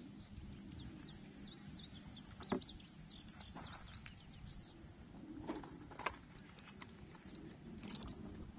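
A small bird sings a quick run of high chirps in the first few seconds. A few sharp clicks and knocks cut through, the loudest about two and a half seconds in.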